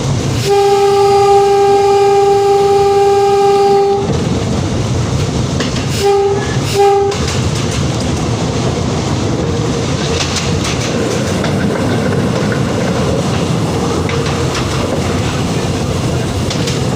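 Train horn sounding one long blast of about three and a half seconds on a single steady pitch, then two short blasts a couple of seconds later, over the steady rumble and wheel clatter of the moving train.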